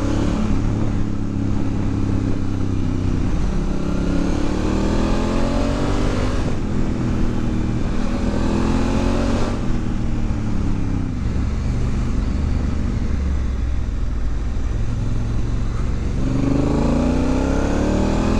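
Honda Africa Twin's parallel-twin engine accelerating through the gears under a manual gearbox, its pitch rising and then dropping at each shift, several times over. Steady wind rush on the helmet-mounted microphone lies under it.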